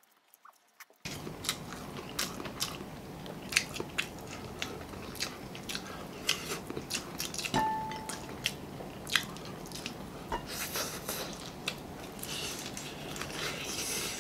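Close-up eating sounds: crunching bites and chewing of crispy breaded fried chicken coated in spicy sauce, with many sharp wet clicks. They start about a second in.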